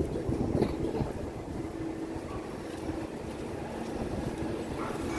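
Steady low rumble of a running vehicle, with a faint steady hum over it and a few soft knocks.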